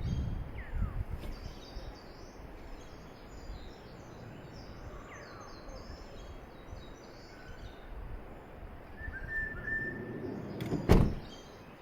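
Birds chirping and calling over a steady outdoor background noise, including two short falling whistled notes. A single sharp knock sounds just before the end and is the loudest thing heard.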